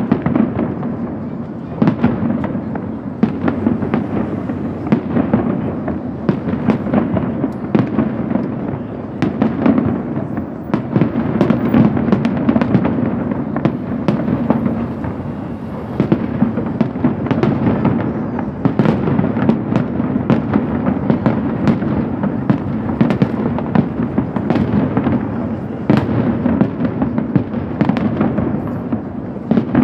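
Fireworks display going off continuously: a dense string of sharp bangs and cracks, several a second, over a steady booming rumble.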